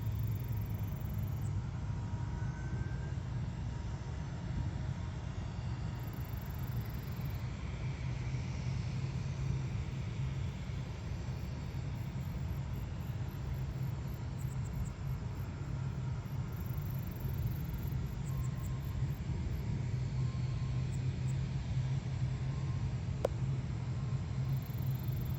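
Steady low engine rumble with a faint hiss over it, holding level throughout.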